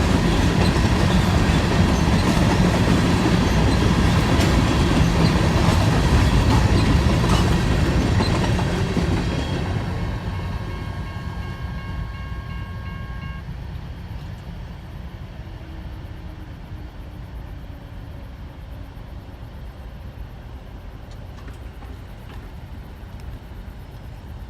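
Freight cars of a BNSF grain train rolling past on steel wheels, loud at first, then fading away steadily from about nine seconds in as the train moves off.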